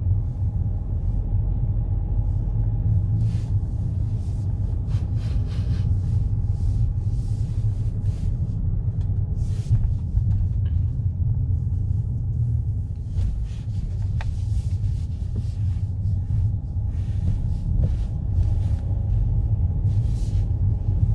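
A car being driven: a steady low rumble of tyres and engine, with brief hissing sounds now and then.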